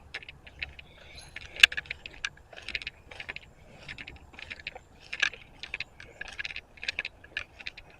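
Footsteps crunching and clinking over debris on a littered floor: a run of irregular small clicks and crackles, with a sharper clink about one and a half seconds in.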